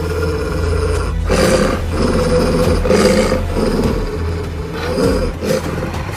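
A large wild animal roaring in three loud bursts, at about one and a half, three and five seconds in, over a steady background music bed.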